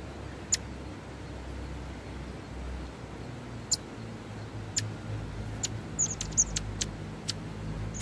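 Short, sharp high call notes from a small bird at its nest: one early, then a run of them coming quicker and bunched together in the second half, over a steady low hum.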